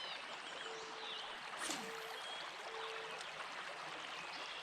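Creek water running steadily over rocks, with faint bird chirps and a sharp click about a third of the way in.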